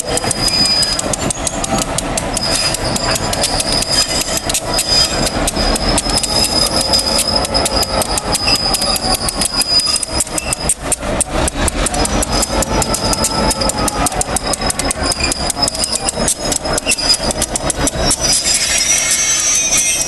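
Passenger train running along the track: a steady low rumble under fast, dense rattling and clicking, with a thin high whine that comes and goes.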